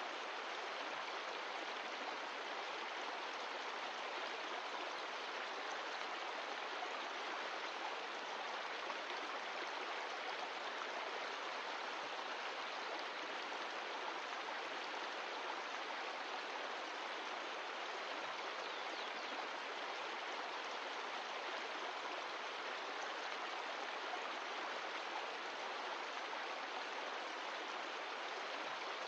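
Mountain stream of glacial meltwater running steadily over rocks, an even rushing and splashing.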